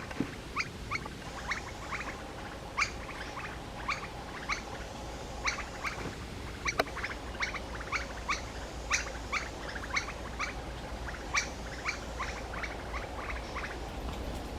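Birds giving many short, sharp, downward-sweeping chirps, a few each second and irregularly spaced, as from several individuals calling together.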